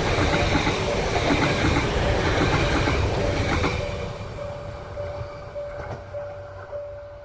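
Yamagata Shinkansen E3 series train passing close by: a loud rush of wheel and running noise for about the first three and a half seconds, then fading away. A repeating mid-pitched tone sounds throughout and is left standing out as the train noise dies down.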